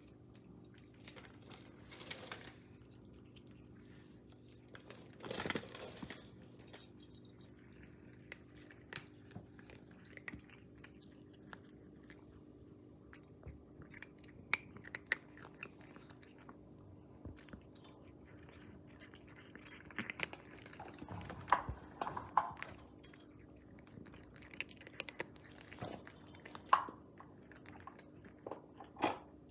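Irregular chewing and crunching with scattered small clicks, over a steady low hum.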